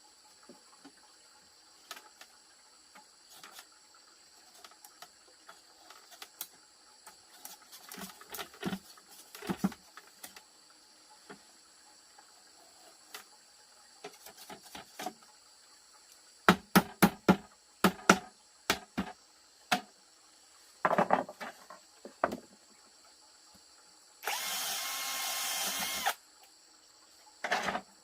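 Construction work on wood: scattered knocks and taps, a quick run of sharp impacts partway through, and near the end a small power tool running steadily for about two seconds.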